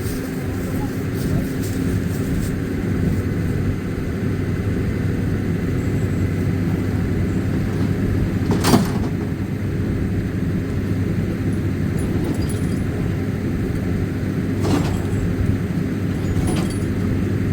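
A vehicle engine running steadily with a constant low hum, and a sharp knock about nine seconds in and another, weaker one near fifteen seconds.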